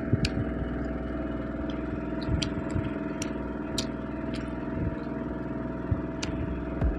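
Steady low mechanical hum, like a motor running, with scattered small sharp clicks of eating from close by.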